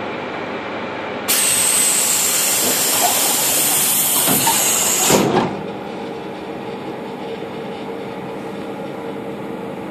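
Electric suburban train's pneumatic door system giving a loud hiss of air for about four seconds, ending with the door shutting about five seconds in. Then the train's motors hum steadily as it pulls away.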